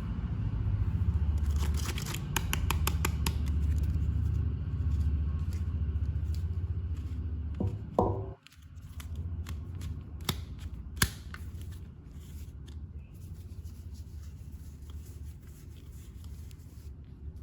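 Action-figure packaging being handled and cut open: a run of sharp clicks and snips, like scissors and plastic, over a steady low hum. The sound drops out briefly about eight seconds in, and one loud click comes about three seconds later.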